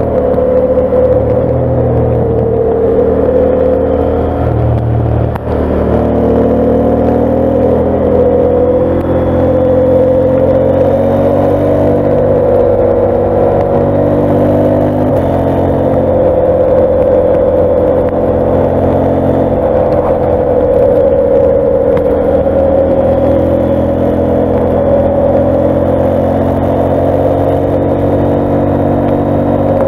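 KTM 890 Adventure's parallel-twin engine running under throttle at road speed, recorded on the bike. The note holds steady, with a short dip in level about five seconds in and a change in pitch about fifteen seconds in.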